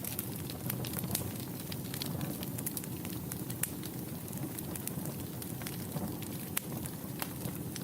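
Wood fire burning in a fireplace: a steady low hiss and rumble of the flames with irregular crackles and snaps, a couple of louder pops among them.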